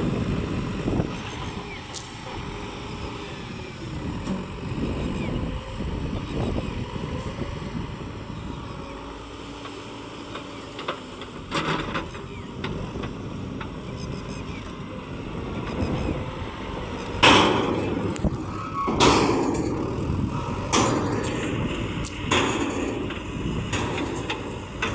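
Heavy vehicle engine noise, running unevenly throughout. Several sudden loud bursts of noise come in the last third, the loudest about two-thirds of the way through.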